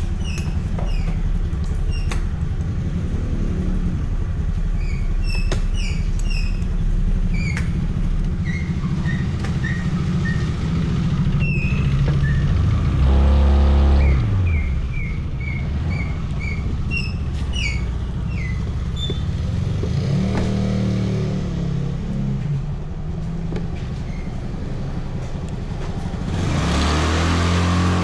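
Motor-vehicle engines running in road traffic, a steady low drone. About halfway through one engine accelerates loudly and climbs in pitch, and near the end another vehicle swells up loudly. Short high chirps come and go throughout.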